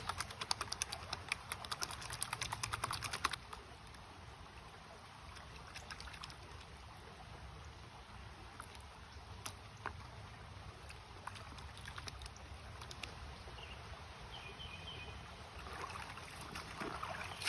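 A rapid patter of small ticks that stops abruptly about three seconds in, leaving a steady low rush of flowing creek water with a few scattered clicks.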